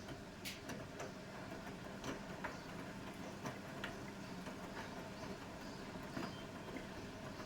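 Bosch Serie 6 WAT286V0 washing machine running a 90 °C cotton wash: a steady low hum with light clicks and ticks scattered irregularly throughout.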